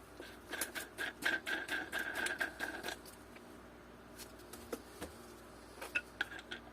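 Small metal hardware clicking and scraping as it is handled and fitted: a quick, busy run of sharp clicks with a faint ringing tone for a couple of seconds, then a few scattered clicks.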